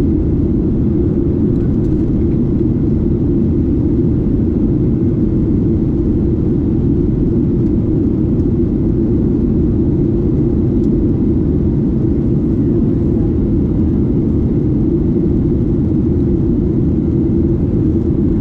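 Steady low cabin drone of a Boeing 737-8 in flight, heard from a seat near its CFM LEAP-1B engine: engine and airflow noise that stays even, with no changes in pitch or level.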